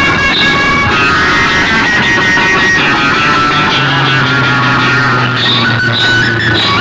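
Loud music played through a large DJ sound-box system, with held high notes over a steady bass line.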